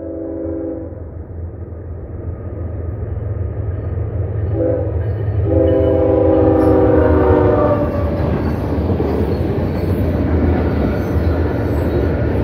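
CSX freight locomotive sounding its horn for the grade crossing: a blast ending about a second in, a short blast at about four and a half seconds, then a longer blast ending near eight seconds. Under the horn the train's rumble grows louder as it nears, and then the cars roll through with the noise of wheels on rail.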